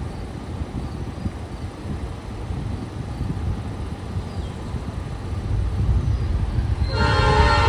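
Low rumble of an approaching train with wind noise, growing louder, then a locomotive air horn starts blowing suddenly near the end.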